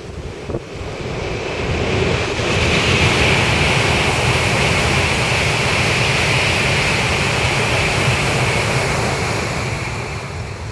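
Tōkaidō Shinkansen high-speed train passing over a steel railway bridge: a broad rushing noise with a bright hiss on top that swells about two seconds in, holds steady, and fades near the end.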